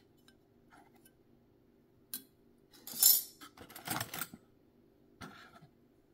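Small metal sewing machine attachments clinking and rattling as they are handled and set down, in a few short bursts.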